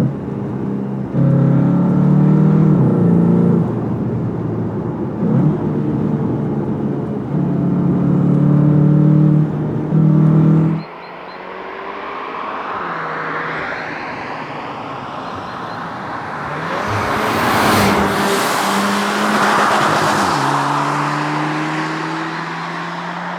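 Cupra Formentor VZ's 2.0-litre inline four-cylinder engine and exhaust running hard in loud stretches of steady engine note that break off about halfway through. Then the car passes by, its tyre and engine noise swelling and fading away.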